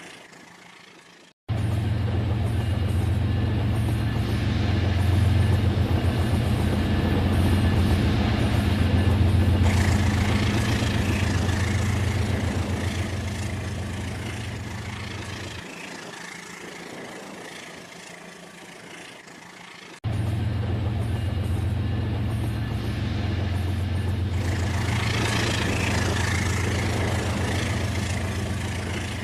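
RailKing toy train running on its track: a steady low motor-and-wheel rumble with a hiss over it. It starts abruptly about a second in, sinks away, then cuts back in suddenly about two-thirds of the way through.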